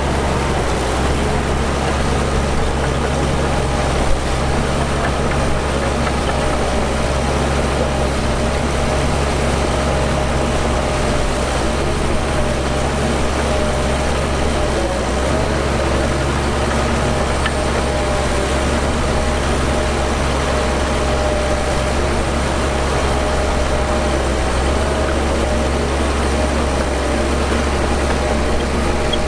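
Heavy diesel earthmoving machinery running steadily at a constant pitch, with a deep low drone and a faint steady whine above it. There is a brief knock about four seconds in.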